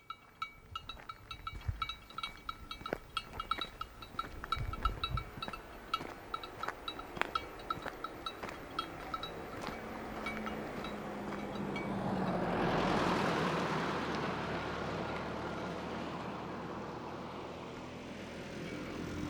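Small metal bells tinkling in quick, uneven strikes. About halfway through, a passing vehicle's engine and tyre noise swells, is loudest around two-thirds in, then slowly fades.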